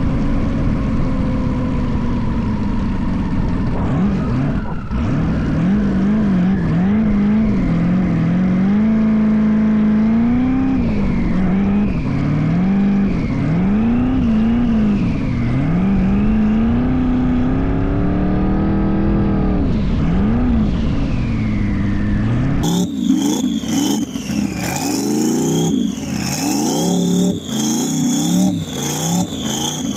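LS-swapped BMW drag car's V8 engine revving up and down repeatedly, its pitch rising and falling every second or so. About three-quarters of the way through the sound changes abruptly and the revving goes on with a sharper, brighter tone.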